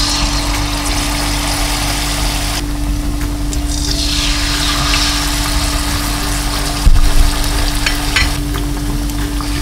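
Battered chicken wings sizzling in hot oil in a nonstick wok, the sizzle swelling as another piece is dropped in about three seconds in. A short knock about seven seconds in, over a steady low hum.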